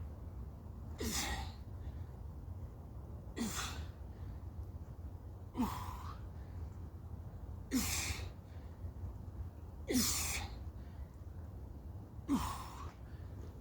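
A man's forceful exhalations during bodyweight exercise reps: six sharp breaths out, about one every two seconds, each with a short falling grunt. A steady low rumble runs underneath.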